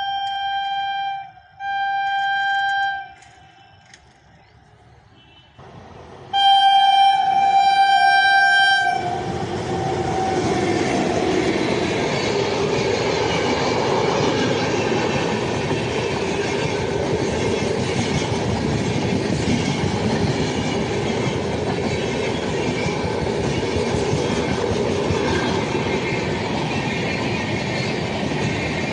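A locomotive air horn sounds two short blasts and then a longer one about six seconds in, its pitch sagging as it ends; a train then runs past with a steady rumble and wheel clatter.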